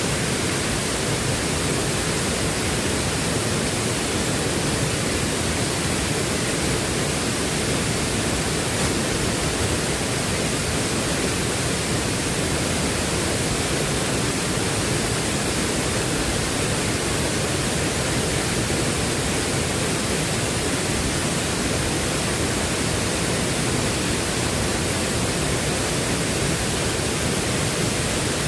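Heavy rain falling steadily: an even, unbroken rushing hiss.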